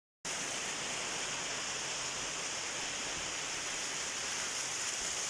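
Waterfall: steady rushing of falling water, with no change in level.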